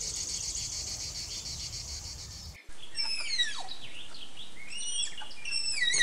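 A steady, high, rapidly pulsing insect trill cuts off suddenly about two and a half seconds in. A run of high whistled animal calls follows, each gliding steeply downward, several in quick succession and overlapping.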